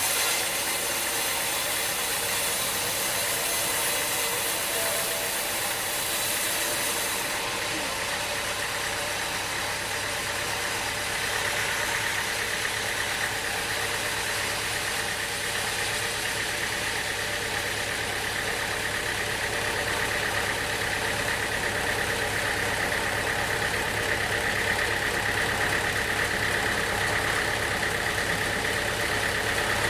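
Engine-driven sawmill machinery running steadily. About eleven seconds in, a steady higher-pitched whine joins the engine noise.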